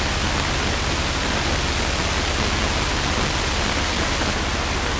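Steady in-flight cockpit noise of a Luscombe light aircraft: an even hiss over a low, unchanging engine and propeller hum.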